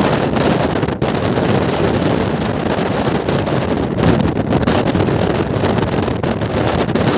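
Steady rush of wind on the microphone over the running noise of a moving express train, heard from on board.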